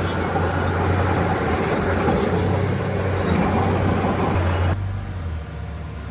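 Heavy diesel earth-moving machinery running under load with a dense mechanical clatter and a few faint high squeaks. About three-quarters of the way through, the sound drops suddenly to a quieter, duller engine running.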